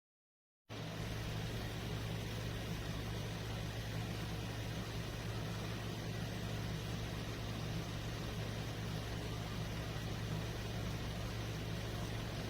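Frida Baby 3-in-1 XL cool-mist humidifier running: a steady low hum with an even hiss over it, cutting in suddenly under a second in.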